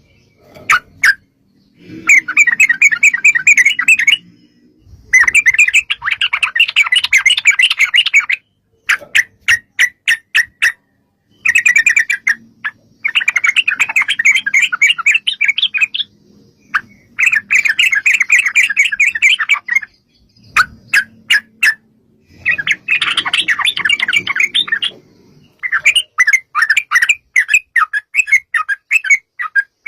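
Yellow-vented bulbuls (trucukan) calling in long, rapid chattering runs of two to four seconds each, broken by short pauses and single sharp notes.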